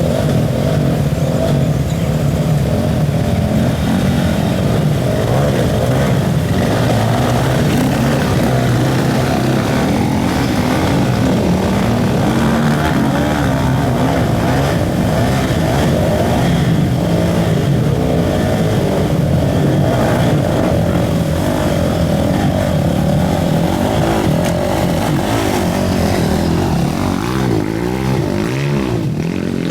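Off-road motorcycle engines running and revving at a river crossing, with several rises and falls in pitch near the end.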